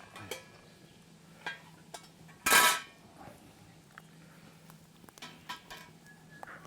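Metal camp cookware being handled: scattered clinks and knocks with a short metallic ring, and one louder clatter about two and a half seconds in.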